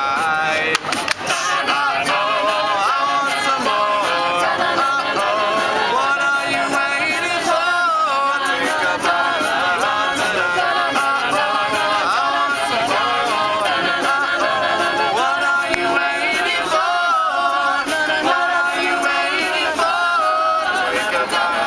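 A cappella vocal group singing a pop song, several voices in close harmony without instruments.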